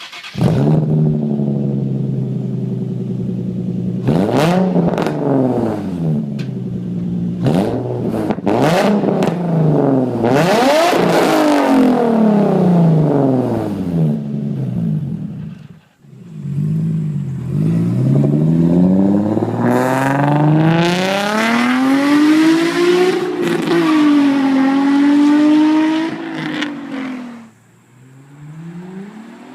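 Nissan 350Z's 3.5-litre V6 heard through an Agency Power single exhaust, firing up suddenly and then revved repeatedly. There are quick blips at first and longer, higher revs later, each falling back toward idle.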